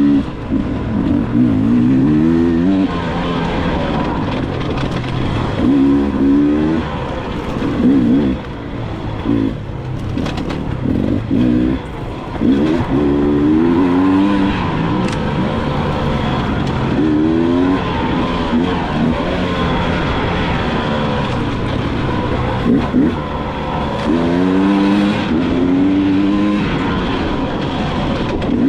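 Dirt bike engine revving up and easing off again and again, its pitch climbing through each burst of throttle, several times over.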